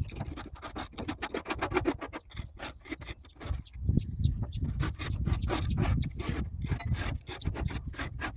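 Rapid hand scrubbing strokes, several a second, against the grimy area around a truck's hydraulic cylinder, with a brief pause about three and a half seconds in.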